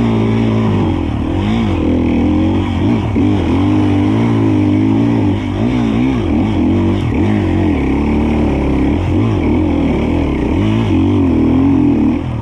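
Two-stroke dirt bike engine revved hard through deep mud, its revs rising and falling again and again, easing off near the end.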